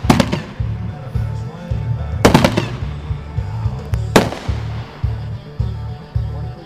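Aerial bursts from a 'Rounders' consumer firework: a sharp bang at the start, a quick cluster of bangs about two seconds in, and another bang about four seconds in. Background music with a steady beat runs underneath.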